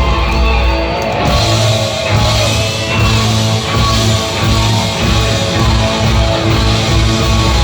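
Live rock band playing hard rock with electric guitar, bass and drums; a guitar note bends upward about a second in.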